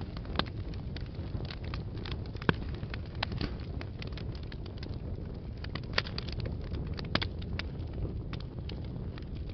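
Wood fire burning in a fireplace: a steady low rumble of flames with irregular crackles and a few louder pops of burning logs.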